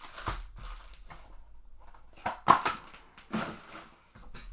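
Cardboard card boxes and foil packs being handled and opened by hand: rustling with a few sharp knocks and crinkles, the loudest about two and a half seconds in.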